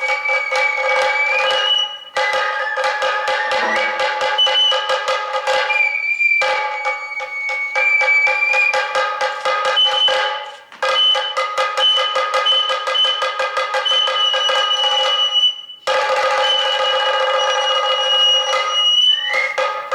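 Sato kagura accompaniment: a bamboo flute holding long high notes with occasional slides, over fast, dense drumming. The playing breaks off briefly about every four to five seconds.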